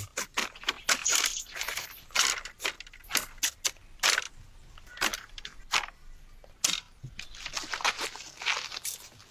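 Dry forest litter, leaves and twigs, crunching and crackling in quick irregular bursts.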